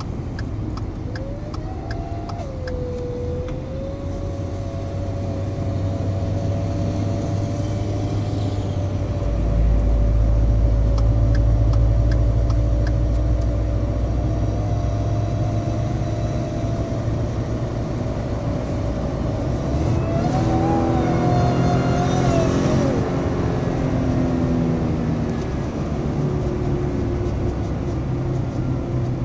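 Ford F-150 3.5 L twin-turbo EcoBoost V6 running under way, with a steady whine over the engine rumble that rises with the revs, holds, then climbs briefly and falls away as the engine slows about 23 seconds in: the noise of a failing turbocharger.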